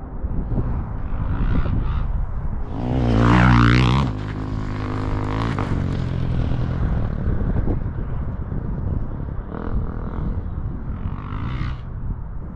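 KTM EXC 350 dirt bike engine running through an Akrapovič exhaust, the revs rising and falling; a loud, sharp burst of revs about three seconds in, with smaller rises later.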